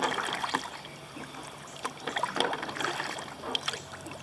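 Kayak paddle strokes in flat water: blades dipping and splashing, with drips and small crackling ticks of water. Strokes swell at the start and again about two seconds in.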